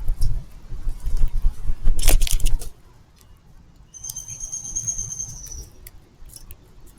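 Backyard birds: a brief flutter of wings about two seconds in, over a low rumble on the microphone. About four seconds in comes a single high, thin, steady whistled note that lasts about a second and a half.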